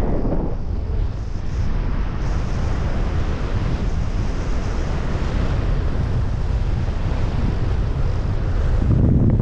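Strong wind buffeting an action camera's microphone in flight: a steady rushing noise, heaviest in the low end, swelling near the end.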